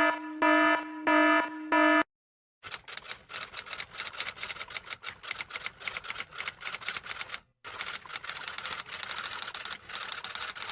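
Four short electronic beeps in quick succession, then, after a brief pause, rapid typewriter key clatter that runs on for about eight seconds with one short break.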